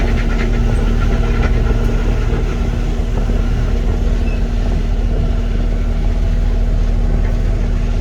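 Diesel engine of a Cat 259D compact track loader running steadily at a constant speed, with a deep hum and a fixed steady tone.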